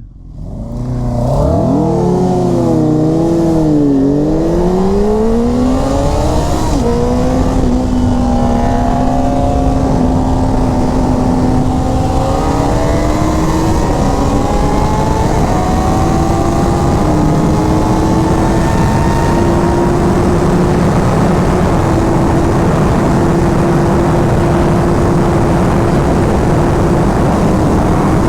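Inline-four sportbike engine at full throttle pulling away from a stop, rising in pitch through the gears with a drop at each upshift, about 7 and 13 seconds in. From about two-thirds of the way through it holds a steady high pitch under heavy rushing wind noise.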